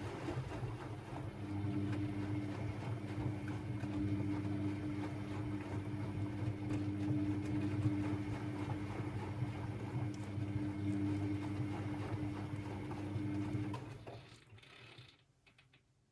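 Constructa Energy 1000s washing machine's drum motor running at a steady speed with a low hum, then switching off about 14 seconds in and winding down, followed by a few faint clicks.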